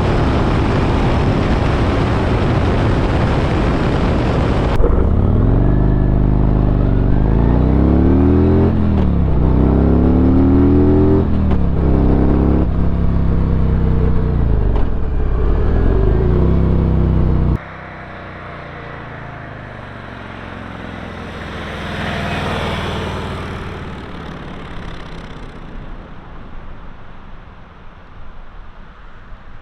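Harley-Davidson Road Glide V-twin motorcycle in several cut-together takes: first a loud rush of engine and wind noise, then the engine accelerating, its pitch climbing and dropping several times as it shifts up through the gears, cutting off suddenly about two-thirds of the way in. After that a quieter pass-by swells and fades away.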